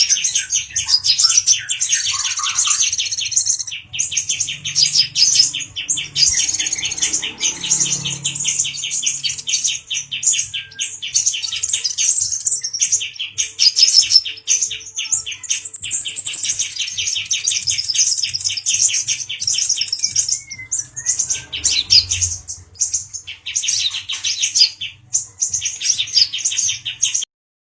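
Male brown-throated sunbird (kolibri ninja, brown-chested form) singing excitedly: long, fast, even trills with sharp high notes over them, in phrases several seconds long broken by short pauses.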